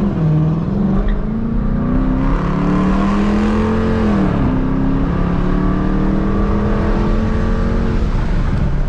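Dodge Challenger R/T's 5.7-litre HEMI V8, with its mid muffler and resonators deleted, accelerating hard from a stop. The exhaust note climbs, drops at an upshift about four seconds in, climbs again more slowly, then falls away as the throttle eases near the end.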